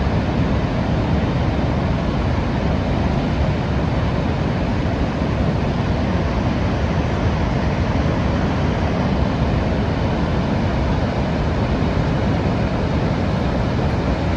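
Niagara Falls: the steady, deep rushing roar of a huge volume of water pouring over the falls, unbroken and even in level throughout.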